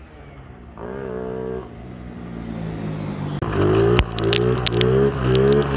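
Bobber motorcycle's engine running, revved once about a second in, then from just past halfway blipped repeatedly about twice a second, with sharp clicks over the revving.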